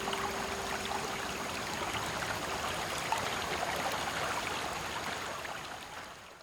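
Small creek running steadily over stones, with the last low note of a steel tongue drum ringing out and dying away in the first second; the sound fades out at the very end.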